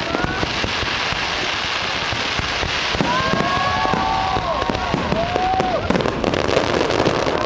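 Fireworks display: a steady din of bursts and dense crackling, with several high tones rising and falling from about three seconds in.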